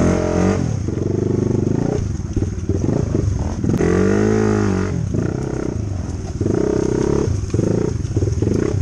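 Dirt bike engine revving in repeated surges as the throttle is opened and closed while riding, with one clear rise and fall in pitch about four seconds in.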